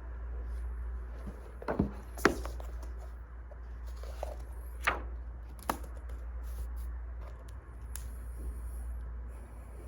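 A handful of sharp clicks and knocks, irregularly spaced, the loudest a little over two seconds in, over a steady low hum.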